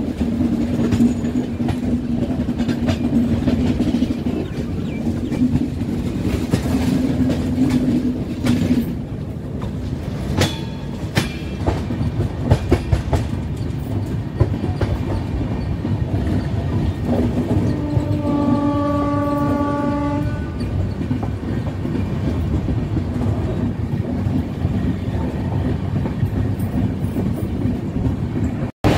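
Express passenger train running on the rails with a steady rumble and wheels clacking over rail joints. About eighteen seconds in, a train horn sounds once for about two seconds.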